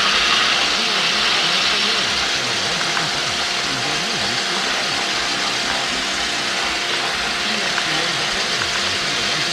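The Cessna 310's twin piston engines running steadily at low power, a constant hum with a few steady tones over hiss, picked up through the aircraft's intercom audio feed.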